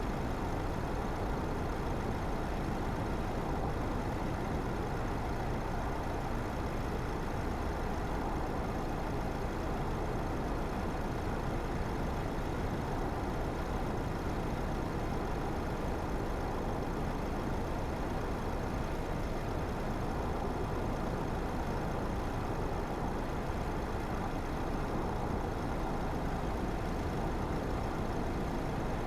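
A car driving at a steady speed: an even, unbroken mix of tyre noise and engine.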